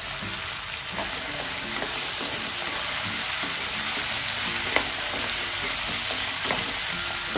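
Freshly added potato cubes sizzling in hot oil in a nonstick pan, with a wooden spatula stirring them and giving a few light knocks and scrapes against the pan.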